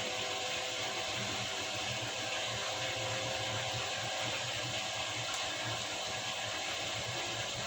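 Beko washing machine running with a steady hiss and a faint hum.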